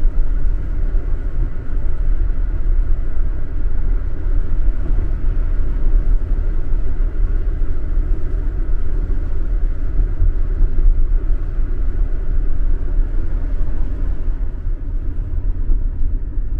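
Car driving along a road: a steady, loud low rumble of road and engine noise.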